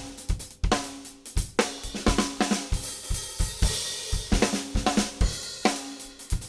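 Acoustic drum kit being played: kick drum thumps under snare and tom hits whose tones ring on, with a cymbal washing over the middle of the passage.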